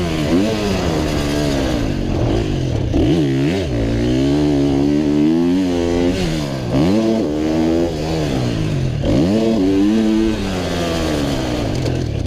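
A 125cc two-stroke motocross bike's engine, heard on board from the rider's helmet. It revs up through the gears and drops off sharply again and again, about five times, as the throttle is opened and rolled off.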